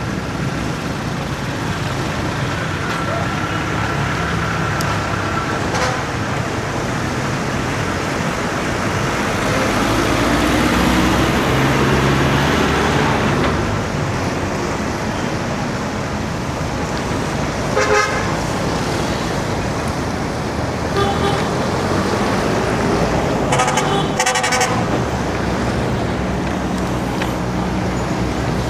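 Road traffic passing a bicycle: a steady rumble of motor vehicles with one swelling louder as it goes by, and short vehicle horn honks about two-thirds of the way in and again a few seconds later.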